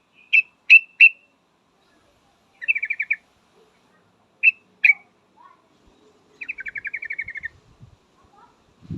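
Female yellow-vented bulbul calling: three sharp chirps, a short rapid trill, two more chirps, then a longer rattling trill.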